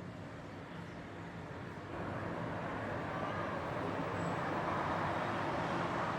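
Road traffic noise: a steady rumble and hiss that jumps louder about two seconds in and keeps building, as of a vehicle coming closer.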